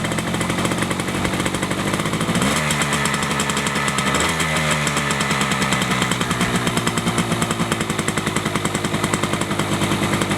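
1974 Yamaha RS100's single-cylinder two-stroke engine running just after starting, with rapid, even firing pulses. A few seconds in the throttle is blipped twice, with rises in pitch that settle back to idle. The freshly reassembled bike starts really good.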